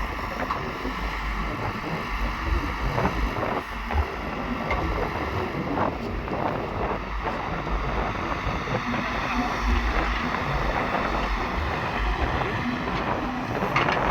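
Diesel engines of earthmoving machinery running steadily, with wind buffeting the microphone.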